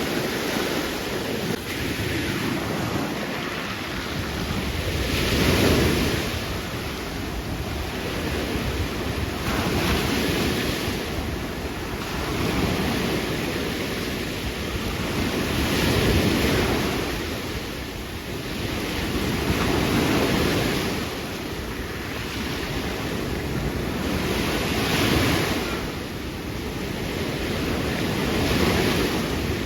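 Ocean surf breaking on a beach, the rush of the waves swelling and easing every four to five seconds, with wind buffeting the microphone.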